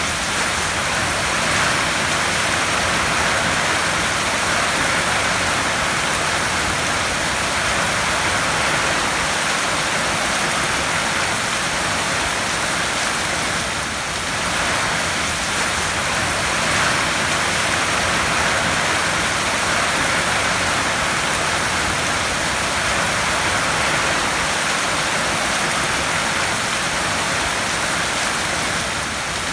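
Heavy rain drumming steadily on a tin roof, a dense even hiss that swells and eases slightly every few seconds.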